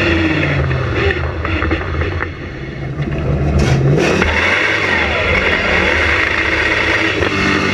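Ford Focus engine accelerating, its pitch climbing for a few seconds, then running loud and steady after a short sharp noise about four seconds in.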